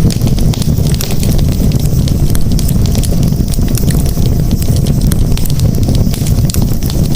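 Campfire crackling, with frequent small irregular pops over a steady low rumble.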